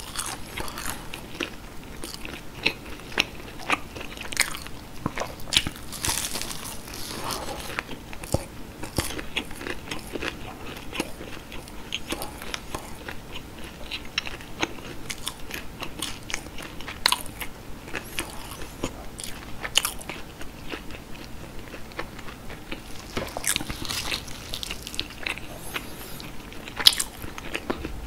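Close-miked chewing of breaded cheese sticks: the crisp crumb crust crunches and crackles between the teeth in many small sharp crunches throughout.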